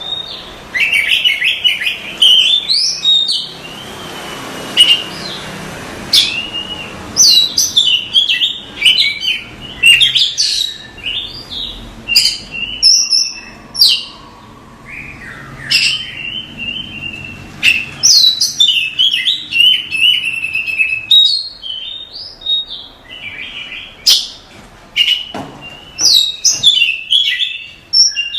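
Oriental magpie-robin (kacer) singing a long, varied song of rapid chirps, rising and falling whistles and trills with only brief pauses. A short hiss sits under the song about four to six seconds in.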